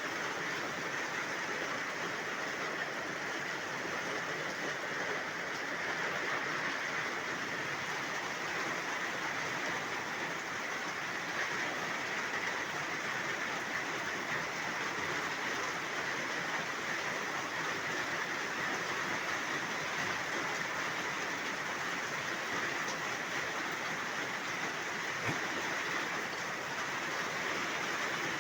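Heavy rain pouring down: a steady, even rush of rainfall that neither swells nor fades, with one brief faint knock near the end.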